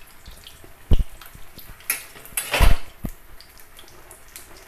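Battered banana pakoras sizzling and crackling in hot oil in a kadhai on high flame. A sharp knock about a second in and a louder, longer clatter a little past halfway.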